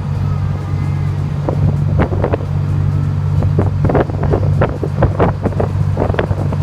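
Fishing boat's engine running with a steady low drone, with wind buffeting the microphone in irregular crackling gusts.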